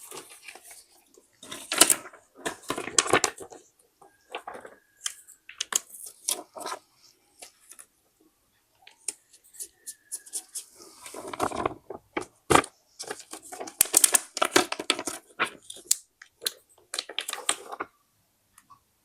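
Paper being handled for a scrapbook: rustling and crinkling in irregular bursts of a second or two, with scattered small clicks and one sharp tap about two-thirds of the way in.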